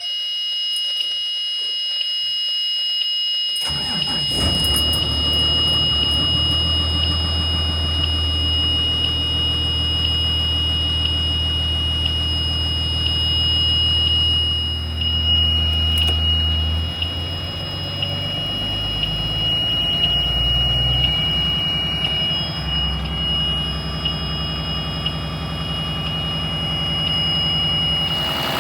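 A steady, high-pitched low-air-pressure warning buzzer sounds throughout. About three and a half seconds in, the bus's 6.7-litre Cummins diesel starts and keeps running at idle under the buzzer, its note shifting about halfway through while the air pressure builds.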